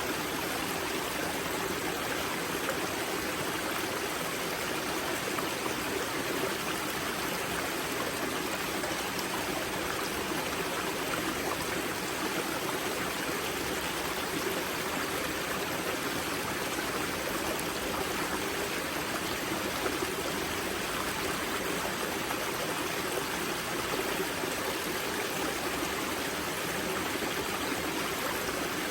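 Spring-fed mountain river at its wellhead, water rushing and splashing over rocks in a steady, even stream.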